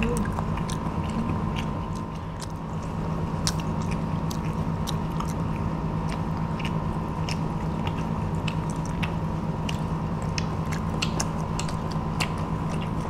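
Children chewing crispy breaded deep-fried shrimp, with many small sharp crunches scattered throughout, over a steady low hum.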